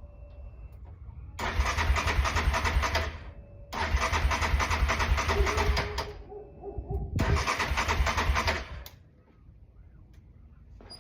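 Yamaha Raptor 700R's single-cylinder engine being turned over by its electric starter in three bursts of about two seconds each, cranking without catching: the ATV won't start.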